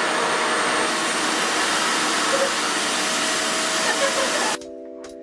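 Revair reverse hair dryer running, its suction pulling air through the hose in a loud, steady rush with a faint whine. It cuts off abruptly near the end, giving way to quieter background music with sustained tones.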